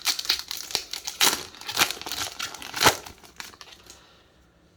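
Booster-pack foil wrapper crinkling and crackling as it is handled, in a run of sharp crackles that dies away about four seconds in.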